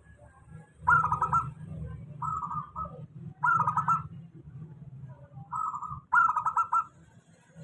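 Local zebra dove (perkutut) cooing: five short, stuttering phrases, some in quick pairs, over a steady low hum.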